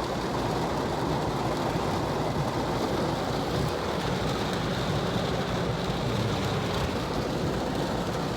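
Steady vehicle noise with rain falling, heard from inside a car.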